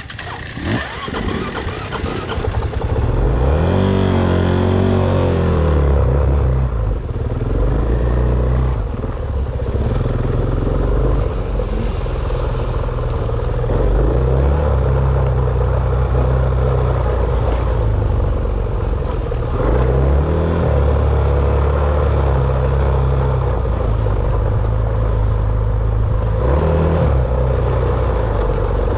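Dirt bike engine running loud while being ridden, its revs repeatedly rising and falling as the throttle opens and closes.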